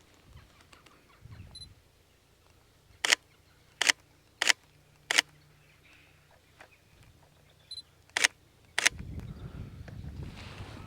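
Camera shutter clicking: four single shots about two-thirds of a second apart, then two more near the end. A low rumble starts just after the last shot.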